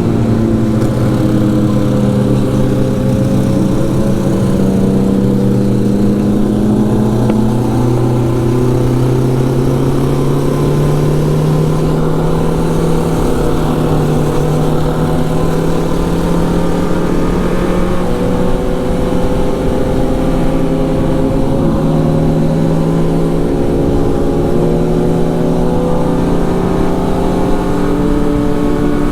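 Motorcycle engine running under way at steady throttle, its pitch climbing slowly and easing off a little near the end, with wind rumble on the microphone.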